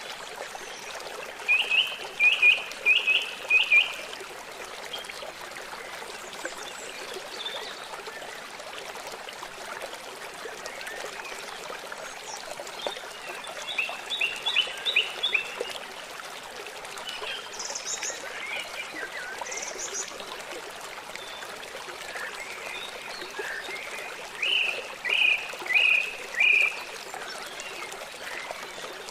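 Small birds chirping in quick runs of four or five notes, repeated several times, over the steady sound of a trickling stream.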